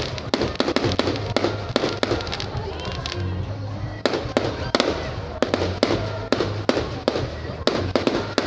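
Fireworks going off in a rapid, irregular series of sharp bangs, several a second, over music with a steady low bass beat.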